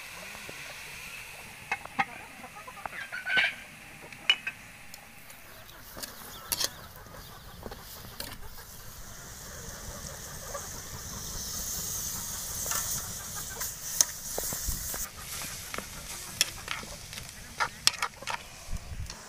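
Shrimp sizzling as they fry in a pan while a utensil stirs them, with scattered sharp clicks and knocks of the utensil against the pan. The sizzle swells for a few seconds around the middle.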